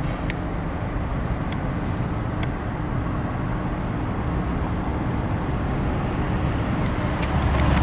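Cummins GTA855 turbocharged inline-six natural gas engine of an enclosed 250 kW generator set running steadily at its 1800 rpm governed speed, a constant low hum with a few faint ticks.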